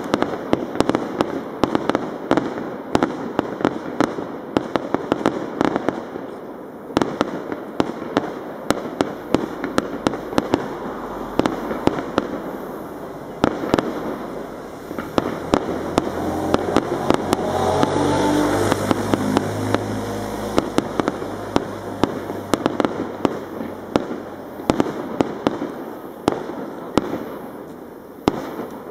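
Fireworks display: a continuous run of sharp bangs and crackles from shells bursting overhead, with a low rumble that swells and fades again around the middle.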